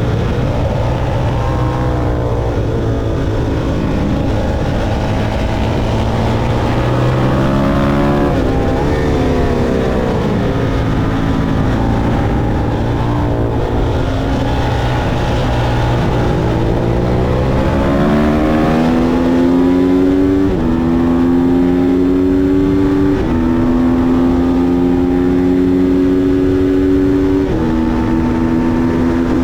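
Motorcycle engine running hard at a track day: it rises and falls in pitch through the first half, then accelerates with three upshifts, the pitch climbing and dropping back at each shift, over a steady rush of wind noise.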